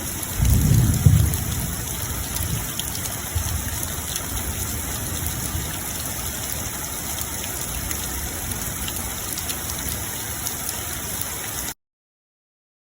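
Steady rain falling, an even hiss of many drops, with a low rumble swelling about half a second in. The sound stops abruptly near the end.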